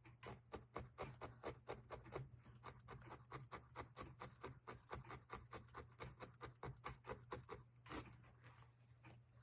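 Felting needle stabbing wool roving into a foam block in quick, even, faint pokes, about five a second, stopping about eight seconds in. This is a small polka dot being felted down onto the bird.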